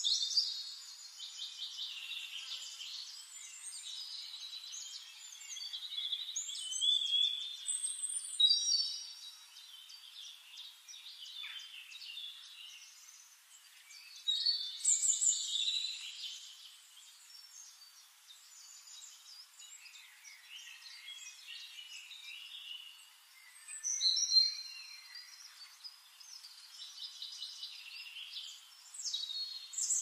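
Songbirds chirping and trilling in a busy, overlapping stream of high-pitched calls, with louder bursts of song every several seconds.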